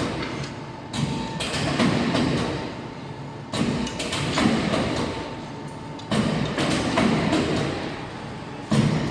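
Hydraulic angle notching machine cycling: four strokes about two and a half seconds apart, each starting with a sudden clatter of sharp knocks and thuds that dies away, over a thin steady whine.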